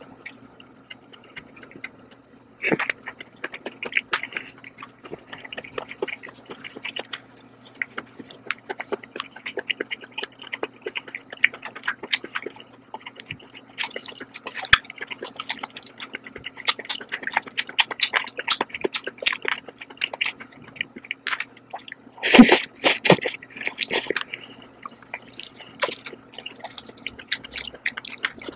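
Close-miked wet mouth sounds of eating jajang noodles: chewing with many quick smacks and clicks, and a louder burst of noise about three quarters of the way through. A faint steady hum sits underneath.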